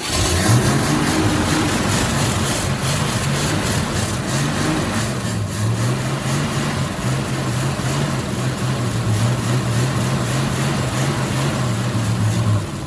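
Old Ford F-Series pickup's engine running just after starting, its note wavering for the first few seconds and then settling into a steady run. It drops off sharply near the end.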